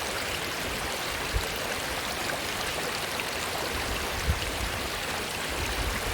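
A river's water running over rocks, a steady rushing with no break, with two brief low thumps about a second and four seconds in.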